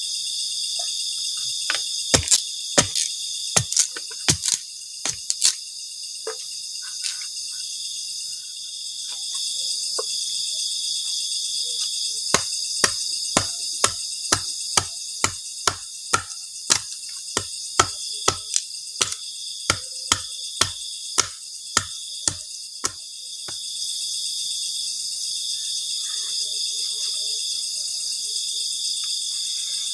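Night chorus of crickets and other insects, a steady high shrill, overlaid by sharp knocks: a loose cluster a couple of seconds in, then an even run of about two knocks a second through the middle.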